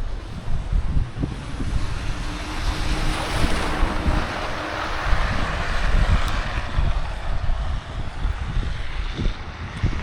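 Wind buffeting the microphone in a blizzard, a constant gusty rumble. Over it, a vehicle passing on the snowy street: its noise swells from about two seconds in and fades again past the middle.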